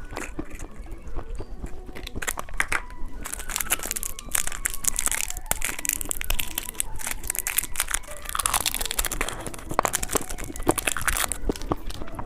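Plastic candy packaging crinkling and crackling as it is handled and opened, in dense sharp crackles that grow thicker from about three seconds in.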